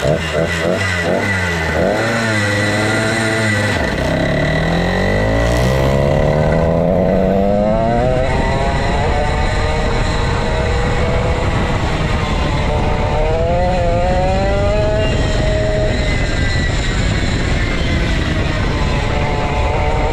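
Vintage go-kart's 135cc Sudam engine running hard, climbing in pitch as it accelerates about four seconds in, then holding high revs with brief dips and climbs again later, as when lifting and accelerating through corners.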